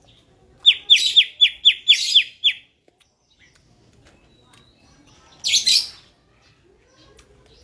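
Green leafbird (cucak ijo) singing: a quick run of about eight sharp, downward-slurred whistled notes over about two seconds, then a short, loud, harsh chattering burst a few seconds later.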